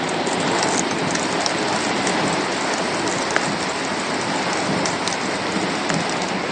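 Heavy rain pouring down, a steady dense hiss with scattered drop ticks.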